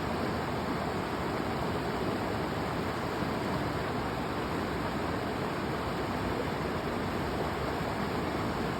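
River water rushing steadily: a constant even rush of flowing water.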